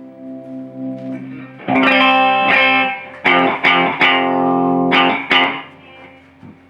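Electric guitar played through a distorted amplifier while setting up: a chord rings quietly at first, then several loud strummed chords ring out from about two seconds in and die away near the end.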